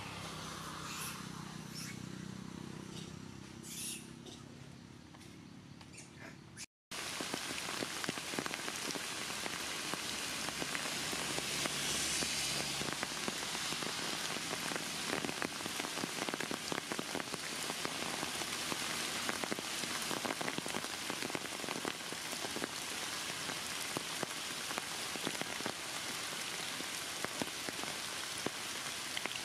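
Steady rain falling on the leaves and branches of the tree canopy, a dense spatter of drops that starts abruptly about seven seconds in. Before it, a quieter stretch with a few faint clicks.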